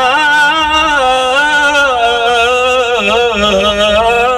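A man's voice singing an Islamic devotional ibtihal, holding out one long melismatic phrase whose pitch slides and turns without a break.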